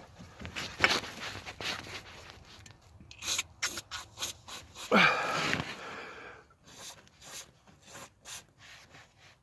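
Hand work on a car's front anti-roll bar link: irregular rubbing and scraping strokes, with a louder drawn-out scrape about five seconds in, then short strokes about two a second near the end.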